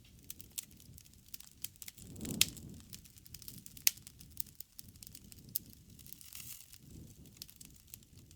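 Campfire burning: wood crackling with many sharp pops, the loudest about two and a half and four seconds in, over a soft low rush of the flames.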